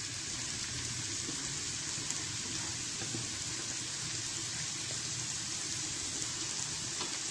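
Grated cauliflower sizzling steadily in a little hot oil in a pan.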